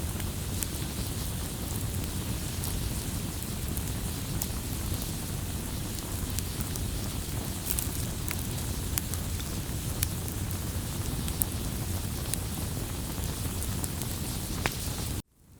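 Wood campfire burning, with a steady low rush of flame and frequent sharp pops and crackles. Near the end the sound cuts out abruptly and then fades back in.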